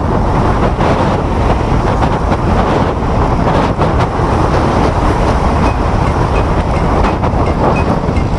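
Steady rushing noise of riding an electric scooter through traffic: wind on the microphone mixed with road and tyre noise, with a few faint clicks.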